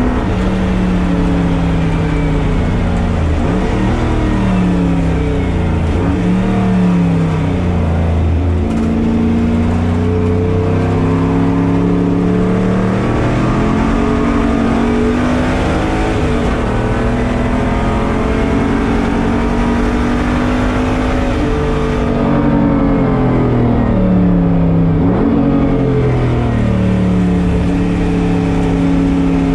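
The LS V8 of a 1983 Toyota Celica race car under hard acceleration on track, heard from inside the cabin. Revs climb and fall repeatedly with gear changes. Several times they drop sharply and come back up as it brakes and downshifts for corners.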